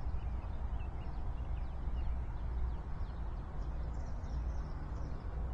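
Steady low rumble of a slowly passing train's diesel locomotives, with birds chirping over it.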